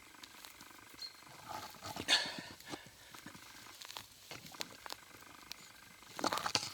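Rustling, scraping and small snaps of grass, forest litter and soil as a galangal (tormentil) root that sits firmly in the ground is tugged at, with a louder scuff about two seconds in and louder rustling near the end.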